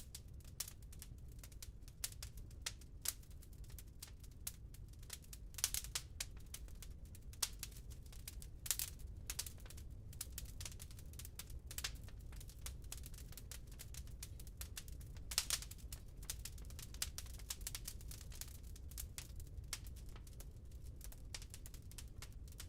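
Wood burning in a fireplace, crackling with irregular sharp pops over a low steady rumble; the loudest pops come about six, nine and fifteen seconds in.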